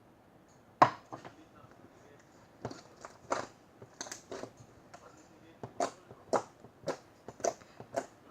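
Slime being squeezed and pressed by hand, giving sharp popping clicks, scattered at first and then coming about twice a second in the second half.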